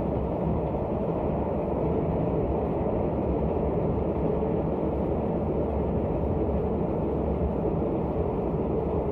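Passenger train crossing a steel truss railway bridge, a steady low rumble.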